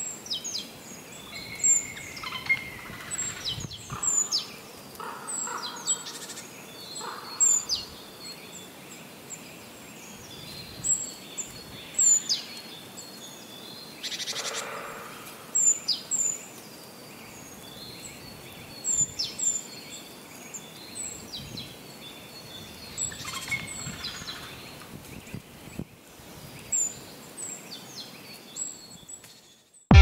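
Woodland birdsong: birds calling with short, high chirps that slide downward, repeating about once a second over a steady faint outdoor background.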